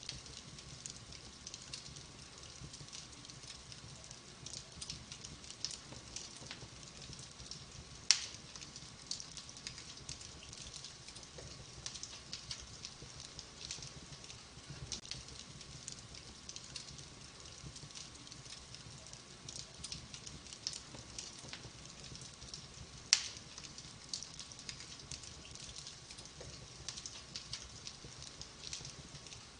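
Wood fire in a fireplace crackling: a steady stream of small crackles, with two loud sharp pops about eight seconds in and again near the end.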